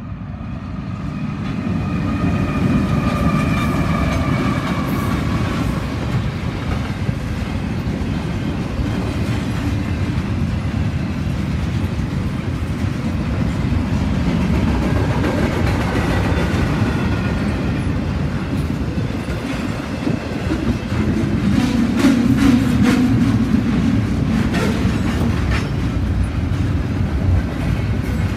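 Norfolk Southern double-stack intermodal freight train passing close by: a heavy rumble that swells as the diesel locomotives arrive, with a pitched whine falling slowly in pitch as they go past. The container well cars then roll by steadily, with a run of sharp wheel clicks over the rail joints about three-quarters of the way through.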